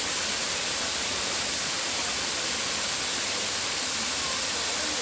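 Waterfall cascade: a steady, even rush of falling water with a strong hiss.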